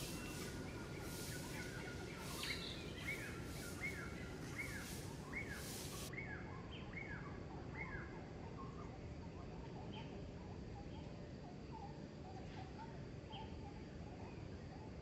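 A bird calling over and over with short chirps that slide down in pitch, about one every three-quarters of a second, then more scattered, over steady outdoor background noise. A pulsing high hiss runs through the first few seconds.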